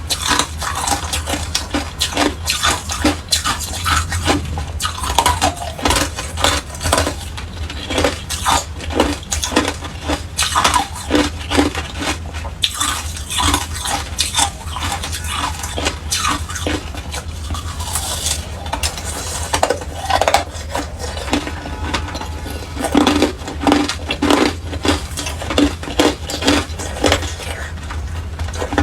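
Hard clear ice being bitten and chewed close to the microphone: a dense, irregular run of sharp cracks and crunches.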